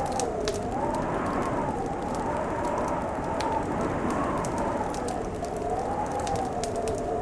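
Fireplace crackling with scattered sharp pops, over a steady hiss. A howling winter wind wavers slowly up and down in pitch behind it.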